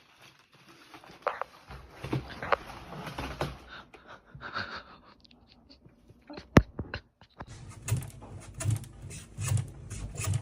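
A pet panting in even breaths about one every three-quarters of a second, after scattered rustling and a single sharp click.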